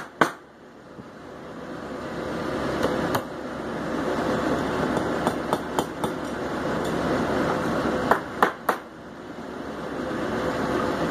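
Hammer blows on hot steel as a small forged leaf is shaped: a couple of strikes at the start, single lighter taps in the middle, and three hard blows in quick succession near the end, over a steady rushing noise.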